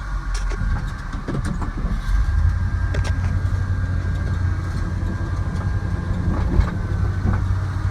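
International plow truck's engine running under load as it pushes snow with a 10-foot V plow, pulling harder about two seconds in, with scattered short knocks and clanks.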